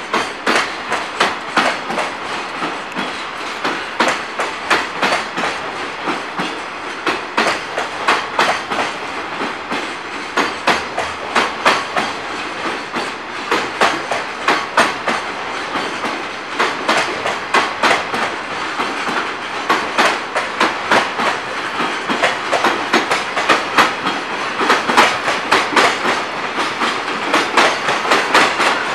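Wheels of a freight train's container wagons rolling past over rail joints, a repeated clickety-clack of clicks and knocks (katan, koton) over the running rumble, a little louder near the end.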